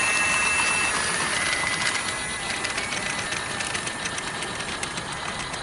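A model train running along the garden railway track: a quick, even clicking and rattling that slowly fades as it moves away, after a high steady tone that stops about a second in.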